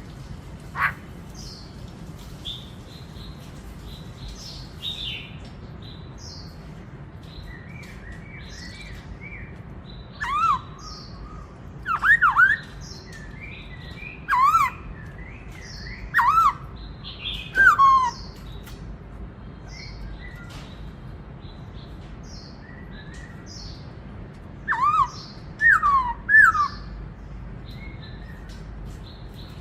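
Black-throated laughingthrush (khướu bạc má) singing. Softer chirps come first. About ten seconds in, loud whistled phrases of sharp up-and-down glides begin, and another short bout of them comes near the end.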